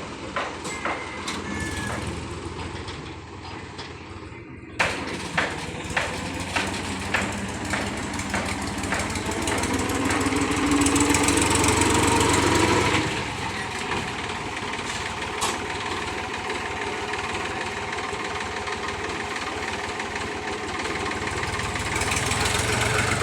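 Tractor engine running steadily. About five seconds in comes a run of sharp metallic knocks, about two a second; then the engine grows louder for a few seconds before settling back to a steady run.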